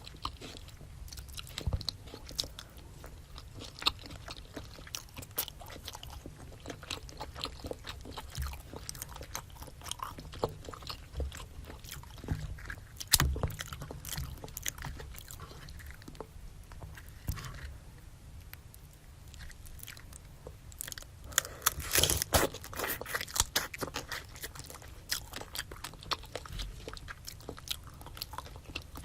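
Close-miked chewing and biting of seafood and rice cake, a steady stream of sharp, crunchy mouth clicks. The bites come thicker and louder for a few seconds past the two-thirds mark.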